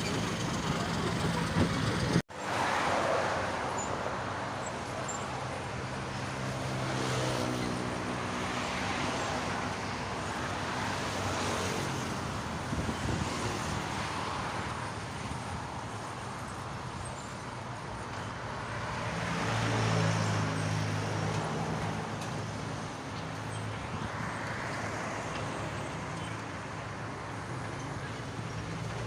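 A bus's diesel engine runs through a loud exhaust on a stock, unremapped tune. Its note swells and falls several times, and there is a brief dropout about two seconds in.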